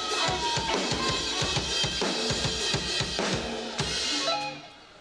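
Drum kit playing a quick beat of bass drum and snare hits, with guitar notes ringing over it; the playing stops about four and a half seconds in.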